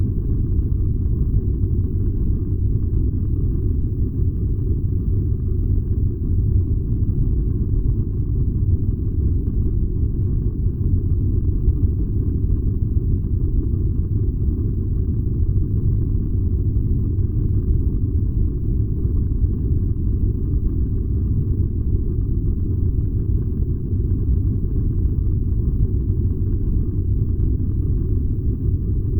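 Furnace burning with a steady, unbroken low rumble.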